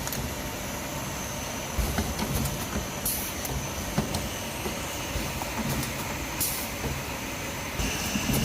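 Automatic rotary vacuum perfume filling and capping machine running, with a steady mechanical clatter of small clicks and knocks. Short hisses of air about three seconds in and again near six and a half seconds, like pneumatic valves venting.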